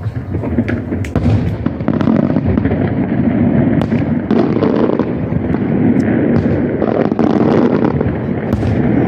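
Fireworks display going off: a dense, continuous rumble of bursts with many sharp crackling pops throughout.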